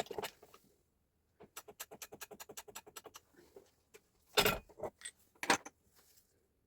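Workshop handling sounds from hand work on tool parts: a quick, even run of about fifteen clicks, then two louder knocks a second apart.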